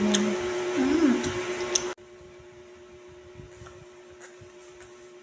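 Close-up chewing with wet mouth clicks over a steady electrical hum, cut off abruptly about two seconds in. After that only the low hum remains, with a few faint small ticks as a glass of iced juice is sipped.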